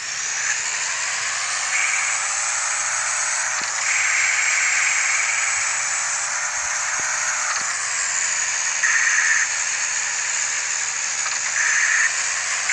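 Steady hiss of rain and tyres on a wet road while driving, with a faint low hum underneath and a few brief swells of louder spray.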